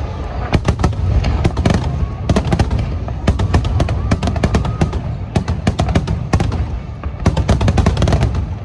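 A rapid barrage of aerial firework shells bursting and crackling in dense clusters over a deep rumble, with music playing underneath.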